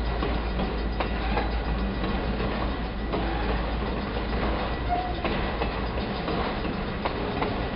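BNSF autorack freight train rolling past, its wheels clicking over rail joints with a steady rumble. A short squeal comes about five seconds in.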